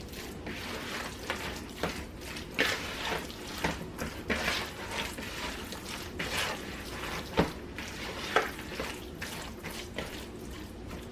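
Hands mixing raw chicken chunks coated in olive oil and seasoning: irregular wet squishing strokes, a few a second.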